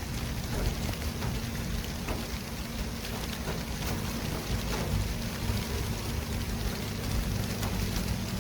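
Steady city traffic ambience: a continuous hiss over a low rumble of engines and tyres, with a constant low hum and a few faint ticks.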